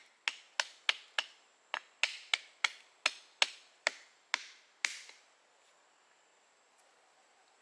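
A tool striking wood in a quick run of sharp blows, about three a second, ending about five seconds in.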